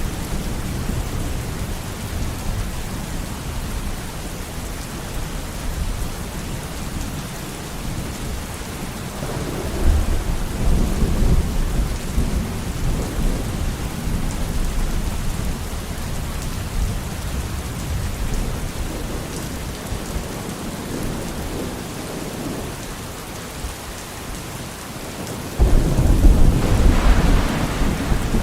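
Steady rain falling, with rolling thunder rumbling underneath: one swell of thunder about ten seconds in, and a louder, sudden clap and rumble near the end.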